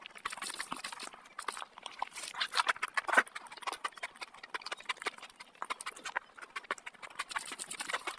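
Wet chewing and lip smacking of a mouthful of rice and curry, mixed with the squelch of curry-soaked rice being kneaded by hand: a stream of small, irregular clicks and smacks.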